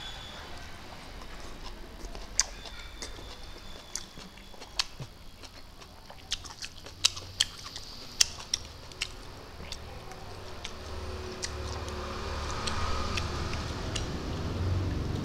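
Close-up chewing and lip-smacking while eating rice and fried food by hand, with scattered sharp mouth clicks. A low rumble builds over the last few seconds.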